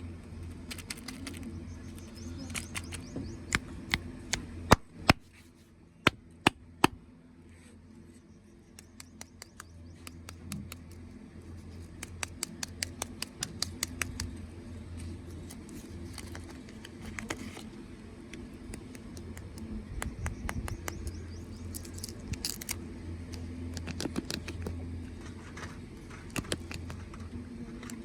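A run of sharp clicks and taps, like small hard objects being handled, loudest in a cluster about four to seven seconds in, over a steady low hum.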